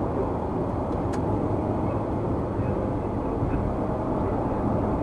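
Steady low rumble of a car's tyre and road noise at highway speed, picked up by a dashcam, with a faint tick about a second in.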